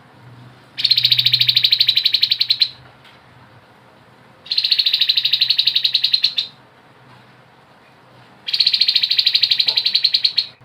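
Grey-headed babbler singing three rattling trills, each about two seconds long and made of rapid, evenly repeated notes, with short pauses between them.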